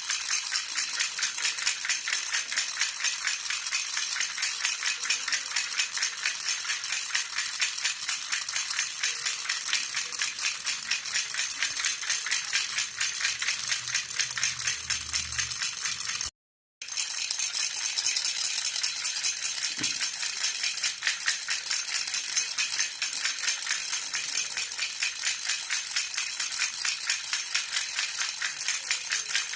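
A jhunjhuna, an Indian baby rattle, shaken rapidly and continuously, giving a steady bright jingling rattle. It breaks off for a split second about sixteen seconds in, then carries on.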